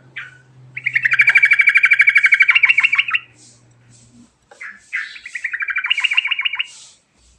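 Yellow-vented bulbul song: two long rapid rolling trills of quickly repeated notes, the second a little softer, with a short note between them.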